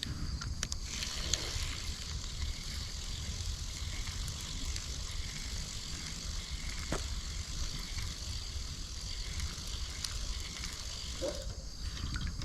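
Spinning fishing reel being cranked steadily as a lure is retrieved, with wind rumbling on the microphone.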